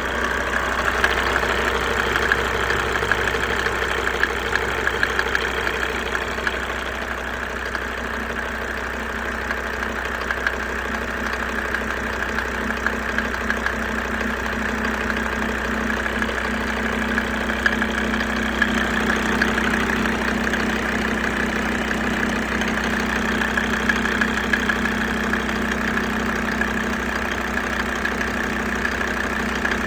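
Mercedes OM605 five-cylinder diesel idling steadily with its usual diesel clatter, just after a cold start with the glow plugs still on.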